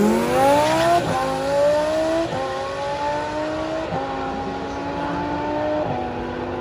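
Twin-turbo Lamborghini Huracan's V10 accelerating hard down a drag strip, its pitch climbing through each gear with four quick upshifts about one, two and a half, four and six seconds in. The sound fades as the car pulls away.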